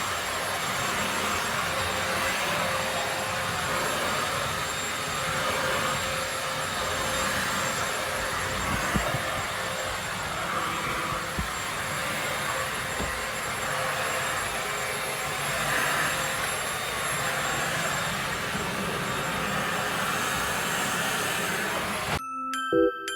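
Vacuum cleaner running steadily: a broad rushing noise with a thin high whine. Near the end it cuts off and light glockenspiel music begins.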